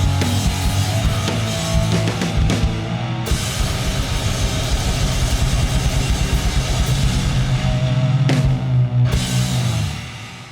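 Loud rock music with drum kit and distorted electric guitar, ending on a held final chord that rings out and fades about ten seconds in.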